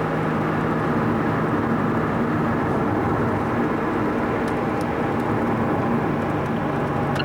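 Steady engine and road noise of a car driving, with a low engine hum that fades about two and a half seconds in and returns near the end.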